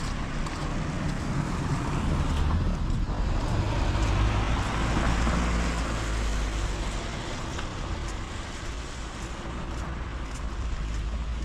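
A car passing on a rain-wet road: a low engine rumble and tyre hiss swell to a peak about four to five seconds in, then fade away.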